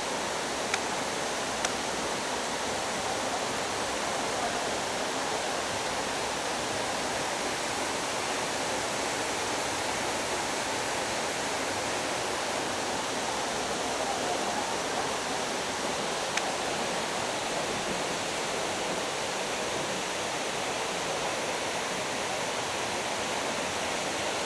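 Waterfall: a steady, even rush of falling water that does not change throughout.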